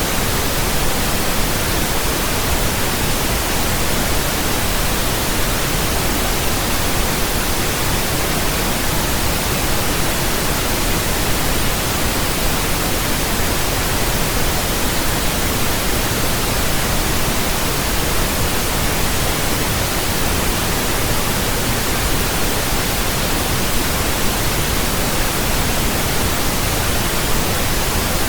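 Steady synthetic pink noise: an even, unchanging hiss spread across all pitches, with a little more weight in the lows than white noise.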